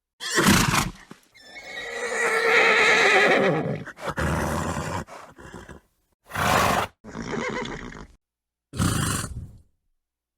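Horse neighing and snorting in a string of separate calls: a short burst near the start, a long whinny from about a second and a half to four seconds in, then several shorter snorting bursts, each broken off by moments of total silence.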